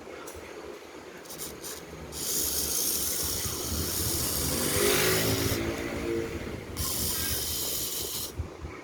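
Two long bursts of hissing that start and stop abruptly, the first about three seconds long and the second about a second and a half, with a low hum under the first.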